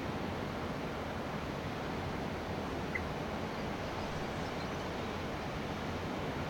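Steady, even rush of wind and sea surf at the shore, with no changes in level.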